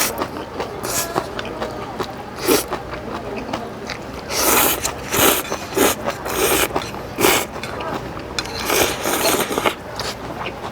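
Spicy instant jjambbong noodles slurped in a series of short, sharp bursts, about nine in all, with eating noises between them.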